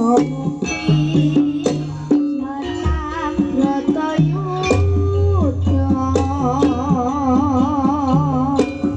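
Javanese-style song: a young sinden singing with a wavering vibrato over drums and instrumental accompaniment.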